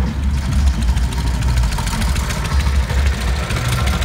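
Small single-cylinder mini bike engine idling, with a low, uneven throb.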